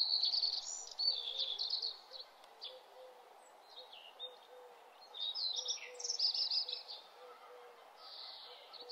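Songbirds chirping and trilling in quick bursts, busiest at the start and again about five seconds in, over a faint steady hiss.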